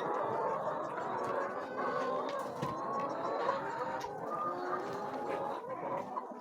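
A flock of chickens clucking and calling over one another in a steady, many-voiced chatter.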